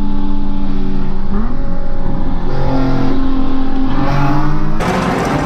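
Car engines and exhausts revving and running, in short clips that change pitch abruptly several times, with a brief rise in pitch about a second in and a rush of noise near the end.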